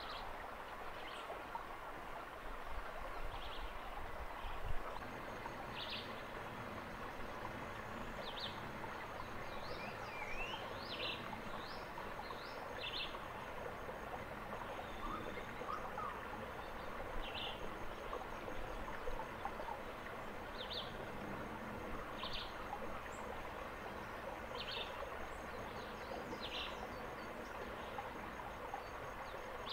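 Short high bird chirps, singly or in quick pairs, every one to two seconds over a steady hiss, with a faint steady high tone coming in about five seconds in.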